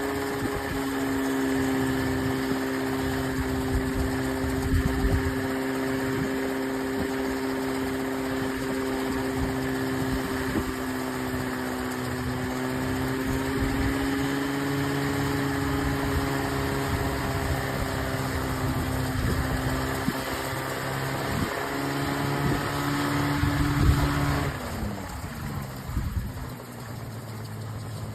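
Homemade coaxial helicopter running with a steady, pitched hum that wavers slightly, then spinning down with a falling pitch near the end.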